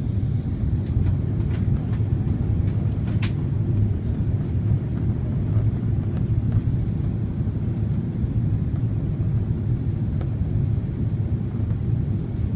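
Steady low drone of jet engines and airflow heard inside an airliner's cabin during the descent for landing, with a few faint clicks in the first few seconds.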